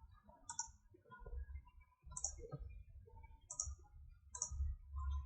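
Computer clicks: several short, sharp clicks about a second apart, over a faint low rumble.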